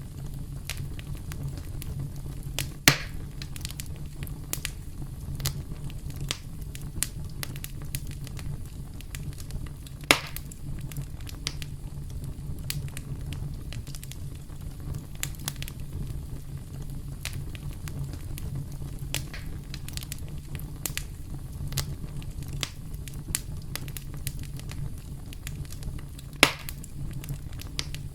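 Campfire crackling: a steady low rumble of burning with many small sharp pops, and three louder snaps, about three seconds in, about ten seconds in and near the end.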